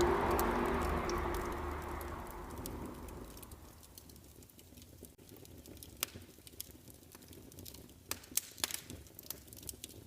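Wood fire crackling: scattered sharp pops and snaps, with a few louder ones close together near the end. A soft hiss fades away over the first few seconds.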